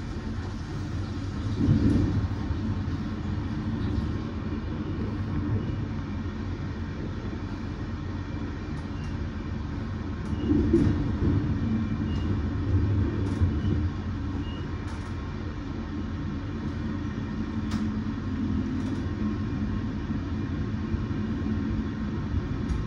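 Express passenger train running on the rails, heard from inside a carriage: a steady low rumble that swells briefly about two seconds in and again around eleven seconds in.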